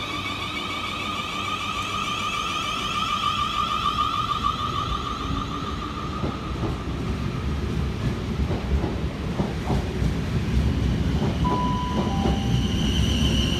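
A Siemens Desiro Class 444 electric multiple unit pulling away: its traction motor whine, several steady tones together, rises slightly in pitch and then fades. Rumbling and a run of clicks and knocks follow as the wheels pass over rail joints and pointwork.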